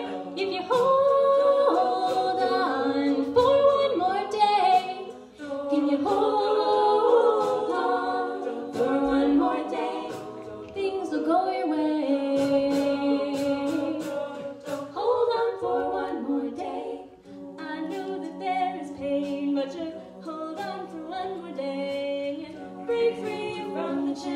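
A cappella group singing in close harmony over a held low bass line, with sharp percussive clicks keeping the beat and no clear lyric line.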